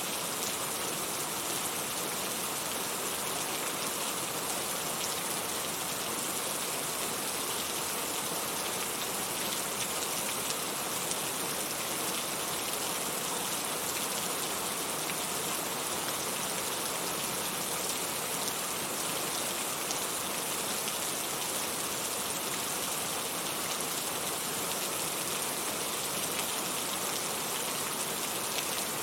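Heavy rain falling steadily, a dense even hiss with faint scattered drop ticks and no thunder.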